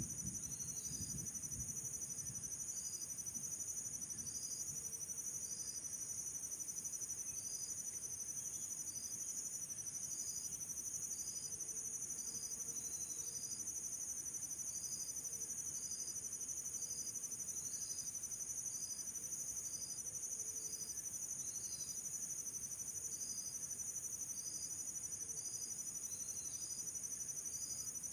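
Insects chirring steadily in high, finely pulsing trills, with a short high chirp repeating about once a second.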